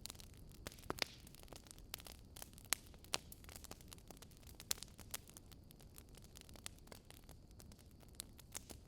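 Wood fire crackling in a fireplace: irregular sharp snaps and pops, a few louder than the rest, over a low steady hiss of the burning logs.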